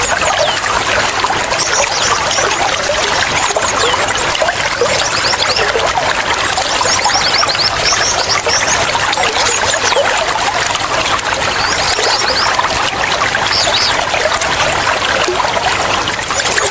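Running water trickling and splashing steadily, like a small stream or water flowing over stones, with many quick bright plinks of water on top.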